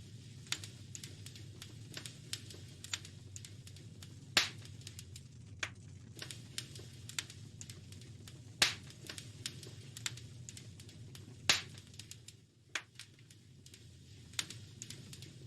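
Wood fire crackling: a steady patter of small sharp clicks with three louder pops, over a low steady rumble.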